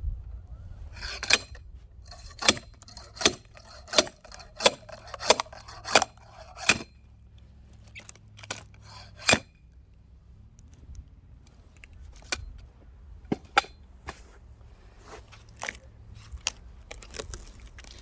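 Axe striking a log of firewood again and again with sharp knocks: a quick run of about eight blows near the start, then scattered blows. The log has a knot inside and is not splitting.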